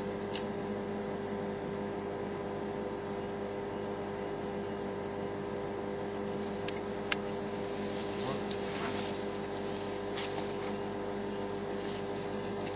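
A steady hum made of several fixed tones, with a few sharp clicks, the loudest about seven seconds in, and faint rustling toward the middle.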